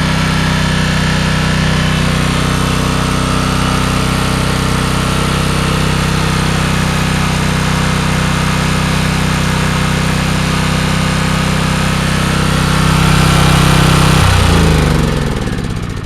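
A small gasoline engine on a 4,000-watt portable generator runs steadily after a cold start. About 14 seconds in it is switched off, and it winds down with falling pitch and fades out.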